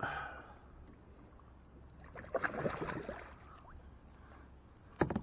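Water splashing and sloshing around a kayak as it is moved and gear is handled, loudest about two and a half seconds in, with a couple of sharp knocks against the hull or gear near the end.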